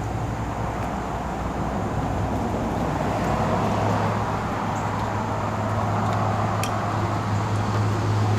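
Big rig truck's diesel engine idling, a steady low hum.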